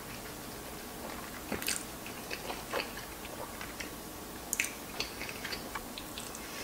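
Close-miked chewing of creamy fettuccine alfredo: soft wet mouth sounds with scattered sharp clicks and smacks, the strongest about one and a half seconds in and again near four and a half seconds.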